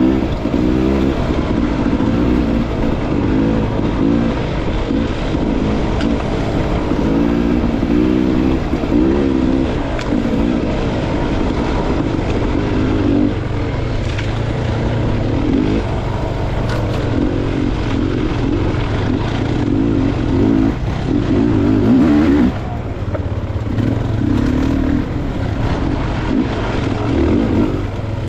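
Dirt bike engine running on a trail ride, its revs rising and falling over and over as the throttle is worked. The level dips briefly about two-thirds of the way through.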